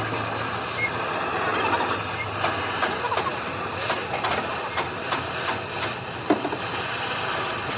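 Steady mechanical background noise with irregular sharp clicks or taps, roughly one to three a second.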